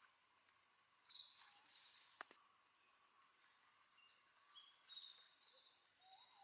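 Faint birdsong: short, high chirping and trilling phrases in two bouts, with a single sharp click about two seconds in.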